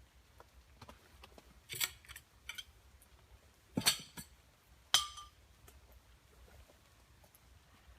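Camping gear being handled and packed away: a handful of sharp clicks and knocks, the loudest two about four and five seconds in, the last with a brief metallic ring.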